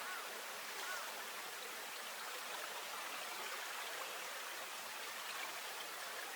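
Steady rush of flowing river water, with a few faint short chirps from a small creature in the first second.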